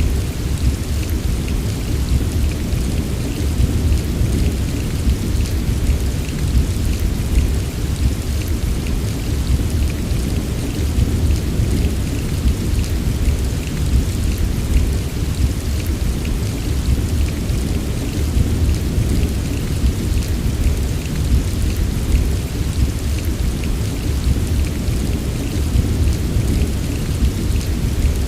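Heavy rain falling steadily, with fine crackling drops over a continuous deep, low rumble and no distinct thunderclap.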